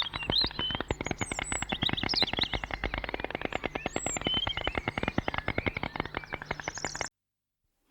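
White stork clattering its bill: a rapid, dry rattle of many clicks a second, with small birds chirping behind it, that cuts off suddenly near the end.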